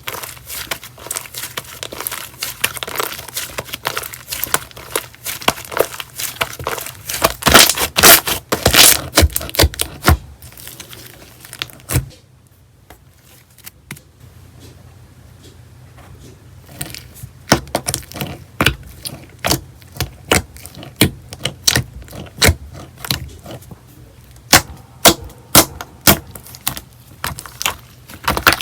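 Slime being pressed and squished by hand, giving a run of sharp crackling clicks and pops. The sound dies down for a few seconds near the middle, then the clicking picks up again.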